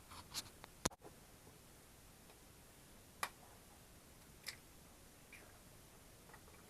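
A few sharp, irregularly spaced light clicks and taps, about six in all, the loudest about a second in, over a faint steady background.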